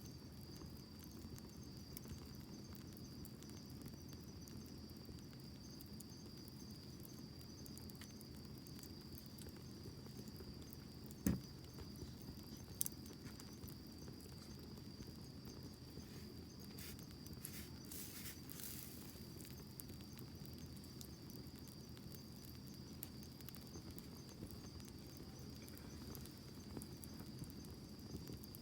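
Wood campfire burning with a soft low rush and scattered small crackles, a sharp pop about eleven seconds in and a smaller one a second and a half later, and a brief hiss a few seconds after that. A steady high insect trill sounds behind the fire.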